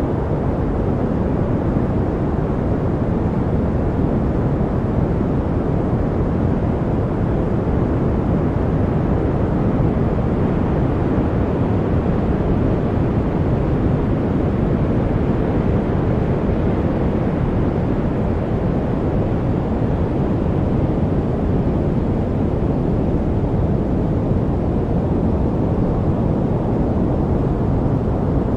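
Steady white noise for studying, an even rush with no changes, heavier in the low end than the high.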